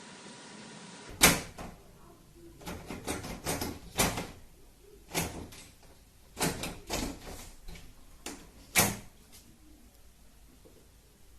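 A series of irregular knocks and bangs, about a dozen, like a door or cupboard being knocked against; the loudest comes about a second in and another near the end.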